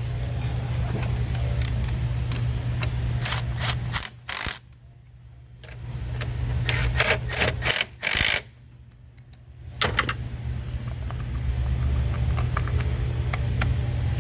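Scattered metallic clicks and taps of hand tools working on car battery terminals, over a steady low hum. The hum cuts out twice for a second or two.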